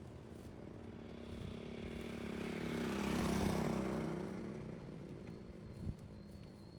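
A motor vehicle passing on the road, growing louder to a peak about three seconds in and then fading away.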